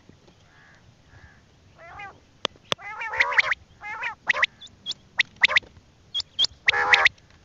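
A bird calling in a rapid series of short harsh calls that start about two seconds in and grow louder, mixed with short high sharp notes.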